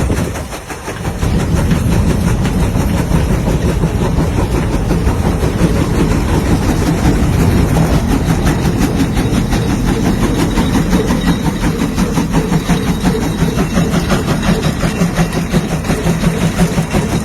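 A large tractor engine running steadily with a fast, even pulse, after a brief drop in level just under a second in.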